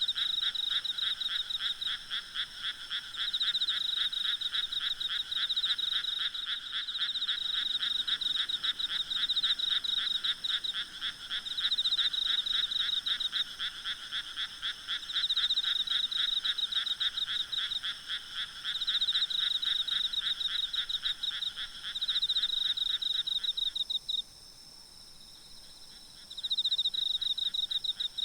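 A chorus of frogs croaking in fast, pulsing runs, with a steady high insect trill underneath. Near the end the croaking stops for about two seconds, then starts again.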